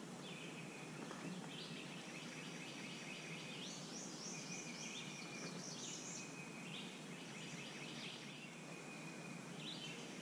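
Faint birdsong: short high trilled phrases repeating every second or two, over a steady background hiss.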